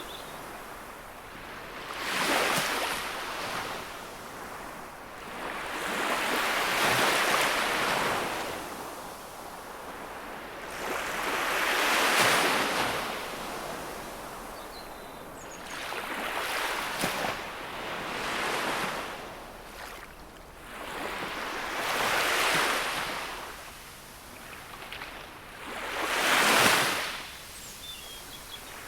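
Gentle sea waves breaking on the shore: a wash of surf that swells and fades about every four to five seconds, six times over.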